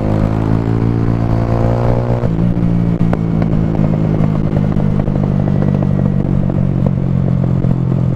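Small Honda motorcycle engine running under way, heard from on the bike. The note eases slightly, changes about two seconds in, then holds steady.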